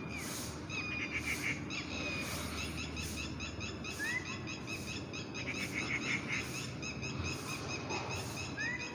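Several birds chirping and calling in a steady chatter of short repeated notes, with a rising whistled call about four seconds in and again near the end.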